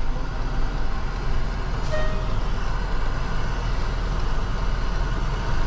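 Large tow truck's engine running steadily, a low even hum, with one brief higher beep about two seconds in.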